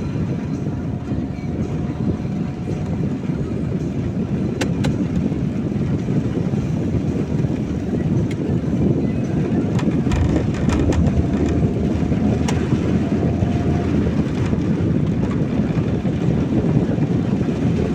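Steady rumble inside a car's cabin while driving on a wet road in the rain: tyre and road noise with the engine, and a few sharp clicks scattered through.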